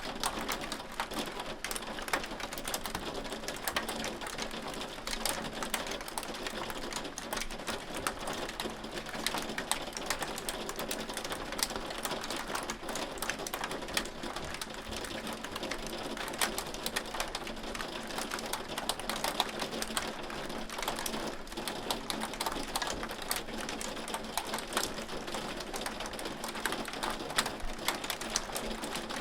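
Hail falling, a dense, steady clatter of many small sharp clicks as hailstones strike.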